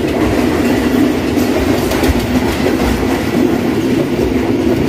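Passenger train running on the rails: a steady rumble with irregular clatter from the wheels over the track.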